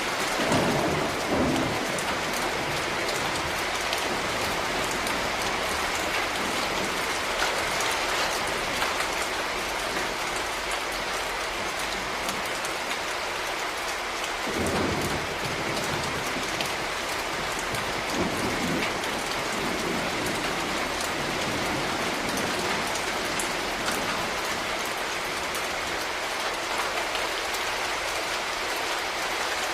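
Steady, dense rainfall pattering on surfaces, with a few short deeper swells about a second in and twice more near the middle.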